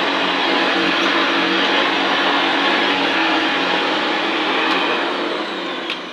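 Hoover Senior 652 upright vacuum cleaner running steadily, then switched off near the end, its motor winding down with a falling pitch.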